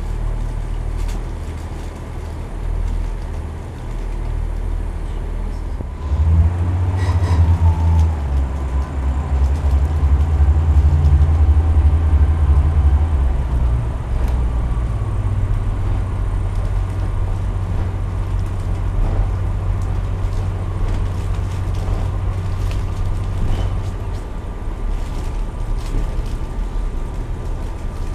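A vehicle's engine running with a low rumble, which swells about six seconds in and eases back around fourteen seconds.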